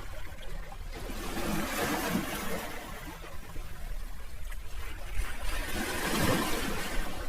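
Sea waves washing ashore, the surf swelling about two seconds in and again, louder, about six seconds in, over a low steady rumble.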